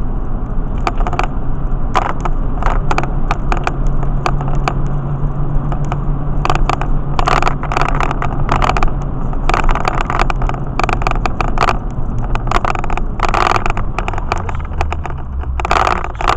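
Inside a truck's cab with the windows up while driving: a steady low drone of engine and knobby off-road tires on the road, with frequent irregular knocks and rattles.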